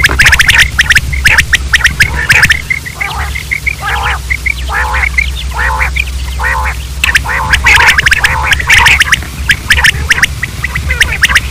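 Common quail calling repeatedly. Rapid clicking, chattering calls at the start and again near the end, with a run of evenly spaced calls about twice a second in the middle, over a steady low hum.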